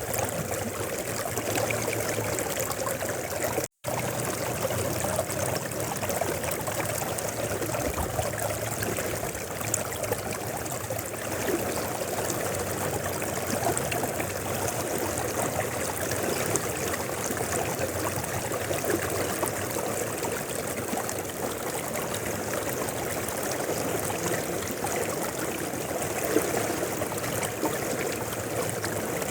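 A shallow river flowing steadily over rocks, an even rushing babble of running water. The sound drops out for a split second about four seconds in.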